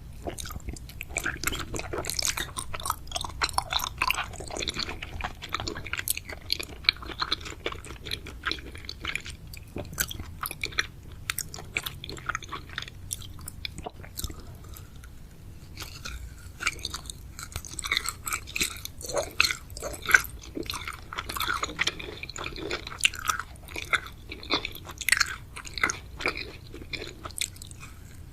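Close-miked chewing of chewy jelly sweets and gummies, with irregular wet clicks and smacks of the mouth, a little sparser in the middle.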